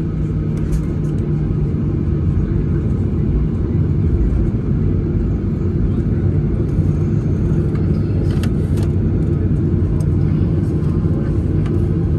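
Steady low rumble of an airliner's jet engines heard from inside the passenger cabin, with a few faint clicks or rattles about eight seconds in.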